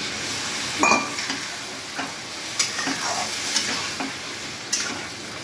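Katla fish heads in spiced masala sizzling steadily in a wok, a little water just added, while a metal spatula scrapes and clacks against the pan about five times. The loudest clack comes about a second in.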